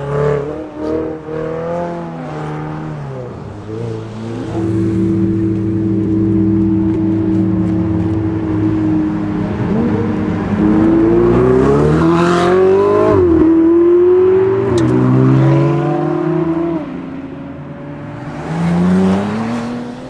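Ferrari 488 GTB's twin-turbo V8 with an Akrapovic exhaust, revving up and down, then held at steady high revs for several seconds. It then accelerates hard through the gears, its pitch rising and dropping at each upshift, and an engine revs up again near the end.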